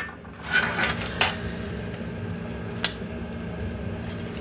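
Oak firewood burning in a wood-fired heating boiler, giving a few sharp crackles and pops over a steady low hum.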